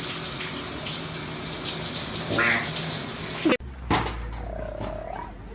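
Running water, like a tap, with a faint hum beneath it and a short rising high call about two and a half seconds in. It cuts off suddenly, giving way to a quieter scene with a sharp knock and a brief gliding call.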